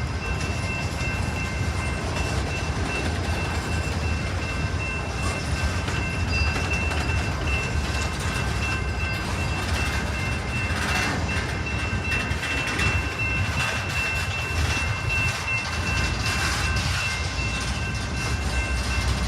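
Train passing, its railcars rolling over the rails in a steady low rumble, with a thin high tone held throughout.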